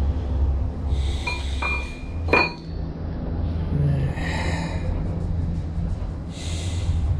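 Steel workshop parts being handled: a sharp metallic clink about two and a half seconds in, with rustling and shuffling and a low steady hum.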